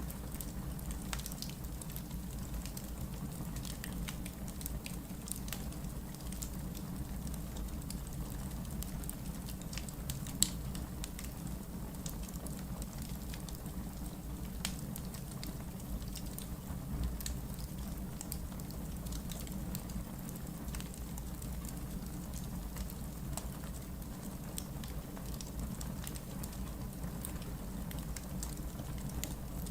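Wood logs burning in a fireplace: a low steady rumble of flame with a scattered run of small crackles and pops, one sharper, louder pop about ten seconds in.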